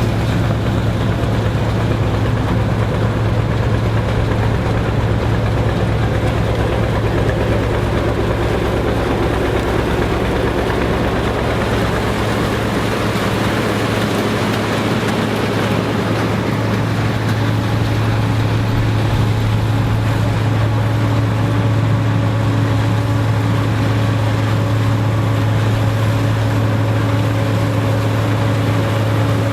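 Engine of vintage farm machinery running steadily at an even speed, a constant low drone.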